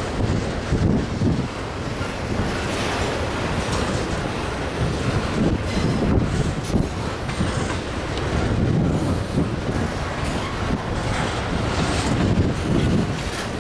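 Union Pacific freight train cars rolling past, wheels clacking over the rails with occasional squeal, and wind noise on the microphone.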